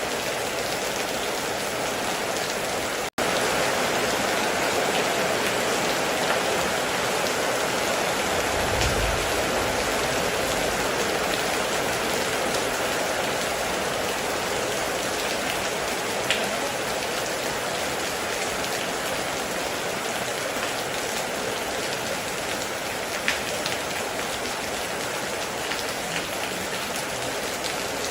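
Heavy rain falling steadily, with occasional sharper drops striking a surface. It cuts out for an instant about three seconds in, and a short low rumble comes about nine seconds in.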